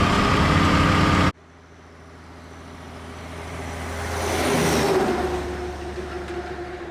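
Loud engine and road noise of a lorry driving, heard from inside the cab, cuts off abruptly about a second in. A vehicle is then heard approaching, loudest about five seconds in, and starting to fade away.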